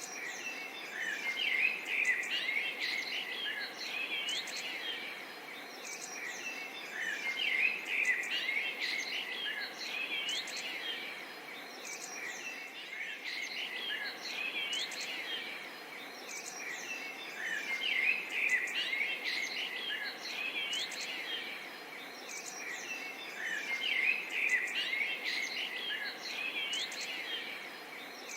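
A dense chorus of small birds chirping, with many short, quick calls overlapping. It swells and fades in waves every five or six seconds over a faint steady background hiss.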